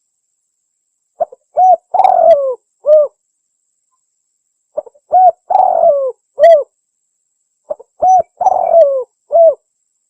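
Spotted dove cooing its song three times, a phrase about every three and a half seconds: a couple of short coos, a longer coo that falls in pitch, then a closing coo.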